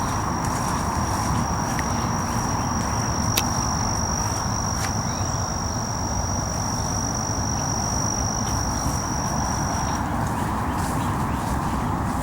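An insect trilling on one steady high pitch, stopping about ten seconds in, over a constant low rumble like that of distant highway traffic, with a few faint clicks.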